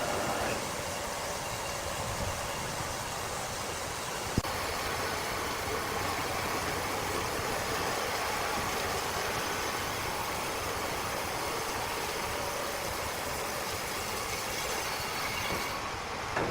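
Steady running noise of heavy machinery, with a single sharp click about four and a half seconds in.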